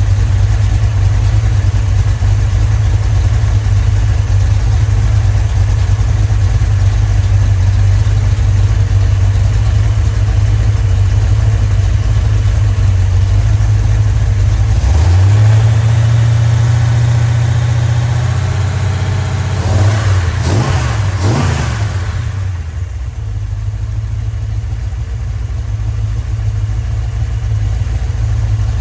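Freshly rebuilt Mopar 318 V8 running at idle. About halfway through the idle steps up a little, then there are two quick throttle blips, and it settles back to a slightly quieter idle.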